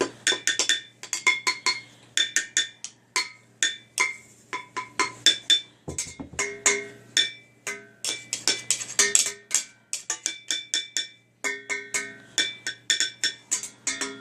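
A toddler beating on metal cooking pots: quick, uneven strikes, several a second, each pot ringing briefly after the hit.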